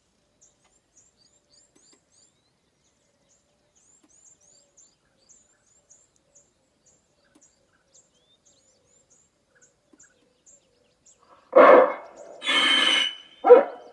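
Faint high chirps repeating steadily; about eleven seconds in, the bird scaring device's loudspeaker starts playing a loud recorded scare sound in three bursts.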